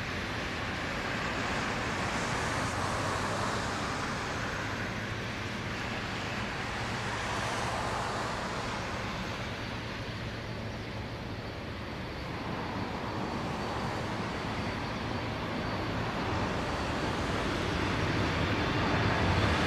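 Distant rushing roar of an Airbus A340-300's four CFM56 jet engines at takeoff power, swelling and fading slightly and then growing louder near the end as the aircraft comes closer.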